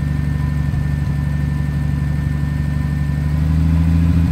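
Triumph TR6's carburetted straight-six engine idling steadily, then revved up near the end, its note climbing in pitch and getting louder.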